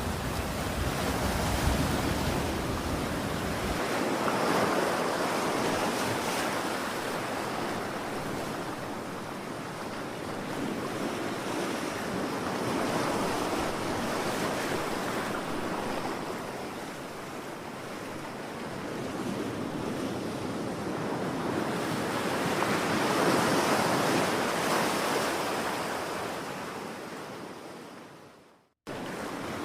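Ocean waves washing onto shore, the surf swelling and easing in slow surges several seconds apart. Near the end the sound fades out to silence for a moment and then cuts straight back in.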